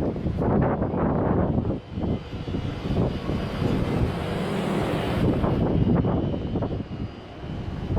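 Strong sea wind buffeting the microphone in uneven gusts, with a brighter rushing hiss for a couple of seconds mid-way.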